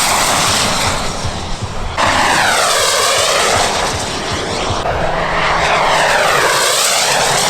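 Radio-controlled model aircraft engine making a loud rushing noise as the model flies past low, with a sweeping, phasing whoosh as it passes. The sound changes abruptly twice.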